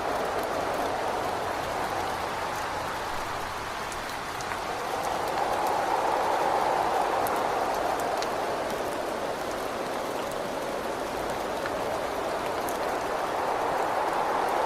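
Steady rain with wind against a window, the wind swelling and easing in slow waves, with a few sharp drop ticks.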